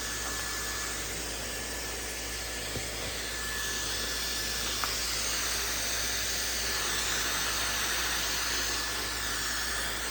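Maxodo Max 1GS high-speed hair dryer running steadily: a rush of air with a thin, high, steady motor whine. From about four seconds in, the airflow sound wavers in pitch and grows a little louder.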